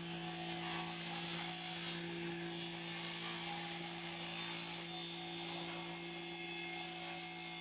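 A steady electrical hum with a constant hiss above it, like a small electric motor or machine running without change.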